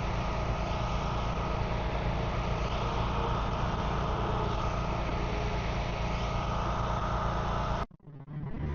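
A vehicle engine running steadily, which stops abruptly near the end.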